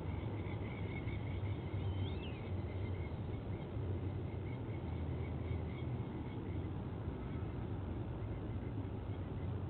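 Steady low outdoor rumble on an open microphone, with a faint run of quick, high chirps from a bird throughout and one short up-and-down bird call about two seconds in.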